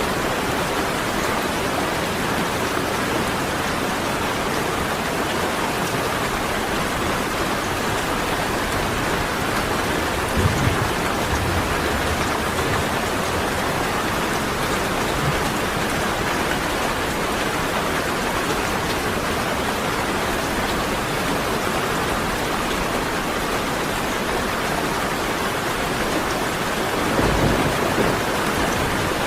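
Steady heavy rain falling, with two brief low rumbles of thunder, one about ten seconds in and one near the end.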